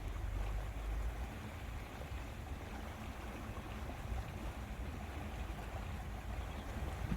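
Lakeside ambience: a steady low rush of wind buffeting the microphone, with water lapping at the lake shore beneath it.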